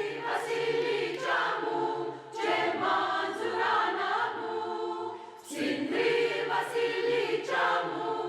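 A choir of mixed Greek and Turkish Cypriot voices singing a song in sustained, held chords, in three phrases with short breaths between them.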